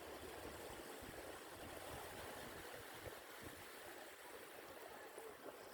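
Faint, steady beach ambience: the sea's surf washing, with low, irregular rumbles.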